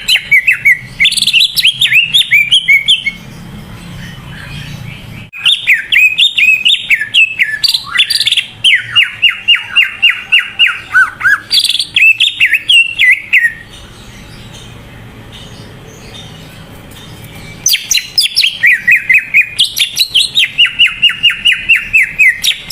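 Cucak ijo (green leafbird) in full song: loud, rapid runs of chattering, sweeping notes, delivered in three bursts with short pauses between.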